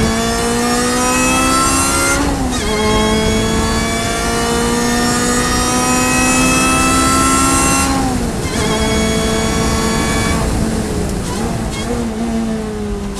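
Supercharged four-cylinder engine of a 2008 Lotus 2-Eleven racing car under full throttle. It climbs in pitch, drops with an upshift about two seconds in, then climbs again to near 7,500 rpm. About eight seconds in the driver lifts off for the next corner and the pitch falls.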